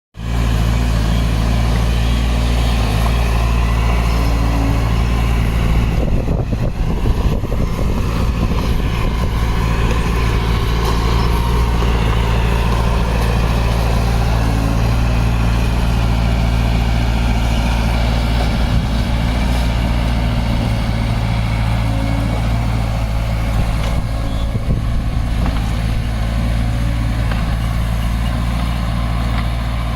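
Diesel engine of heavy earthmoving equipment running steadily under work, a deep even drone with some rougher rattling about six to eight seconds in.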